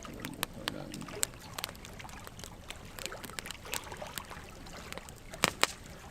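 Wood fire crackling and popping over a low steady rush of burning logs, with two sharp louder pops about five and a half seconds in.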